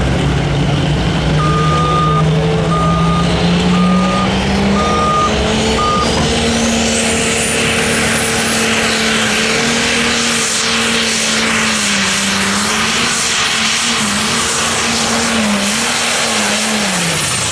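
Light Pro Stock pulling tractor's turbocharged diesel engine working hard under load, its pitch climbing and then holding with small dips, over a high turbo whine that rises to a steady peak about seven seconds in. Near the end the engine and the whine fall away as the run ends. A series of five short beeps sounds in the first few seconds.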